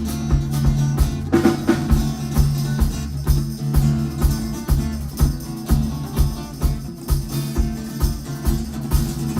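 Band playing an instrumental passage of a rock song without vocals: a drum kit keeps a steady beat of about two hits a second over a sustained bass line.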